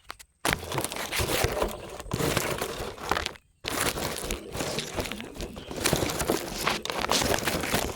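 Close, dense rustling and crackling as a bird is worked free of a cage by hand, broken by a brief silence about three and a half seconds in.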